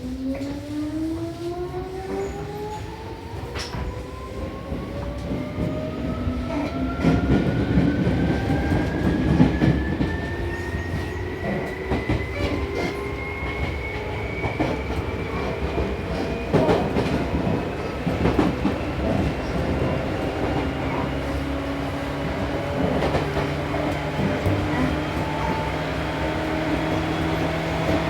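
Seibu New 2000 series electric train heard from on board, accelerating away from a station. Its traction motor whine rises steadily in pitch for about fifteen seconds and then levels off as the train reaches running speed, with the wheels clicking over rail joints.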